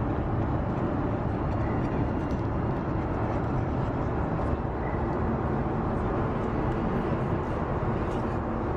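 Airliner cabin noise in flight: a steady, loud rumble and rush of engine and airflow heard from inside the cabin.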